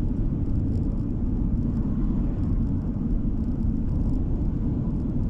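Steady low rumble of tyre and engine noise from a car driving along the road, heard from inside the cabin.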